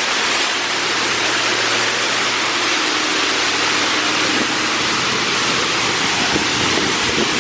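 Oasis Monsoon automatic car wash spraying water over a car: a steady, loud rushing hiss of spray.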